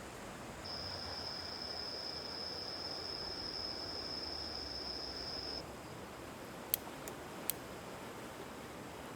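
Quiet outdoor hiss with a steady high-pitched tone that cuts in near the start and stops abruptly after about five seconds, followed by three sharp clicks.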